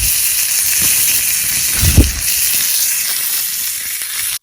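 Meat sizzling hard in a hot iron frying pan, a loud steady hiss, with a dull knock of the pan about two seconds in. The sizzle cuts off abruptly at the end.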